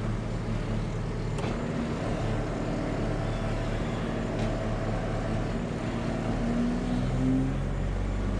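Tractor engine running steadily, with a short rise in pitch near the end.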